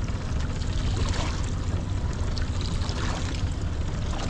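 Steady wind rumble on the microphone over water sloshing and trickling against a small boat's hull.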